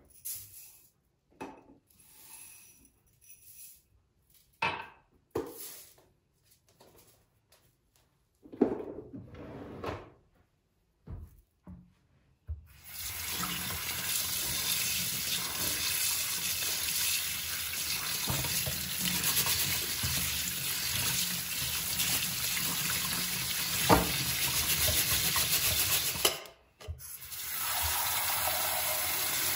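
Scattered knocks and clicks of kitchen things being handled, then a kitchen tap running steadily into a sink, cut off briefly near the end before it runs again.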